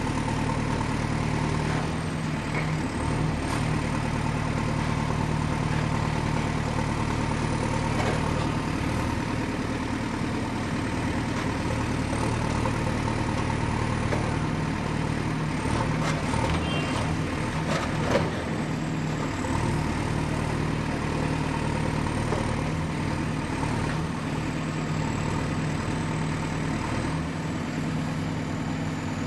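Excavator's diesel engine running steadily at work, with a single sharp knock about 18 seconds in.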